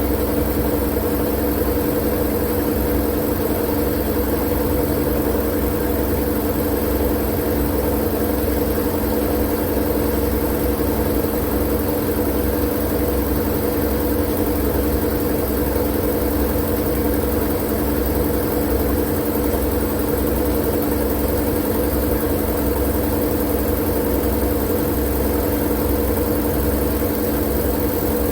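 Steady, unchanging white-noise drone: a low rumble under a few constant humming tones and a hiss, like a machine running at an even speed.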